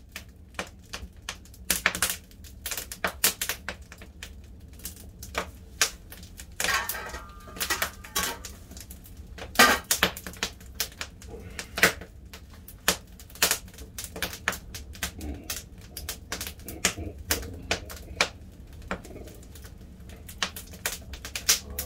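Firewood burning with irregular sharp cracks and pops as the fire catches.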